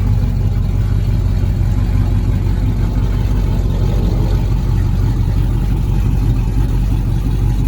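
Car engine running steadily at a low, even pitch.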